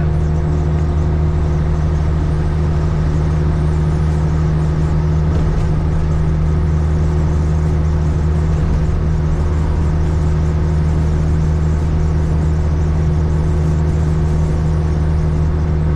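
Caterpillar 3406E diesel engine of a Freightliner FLD120 truck running steadily at highway cruise, heard from inside the cab as an even, low drone that holds one pitch.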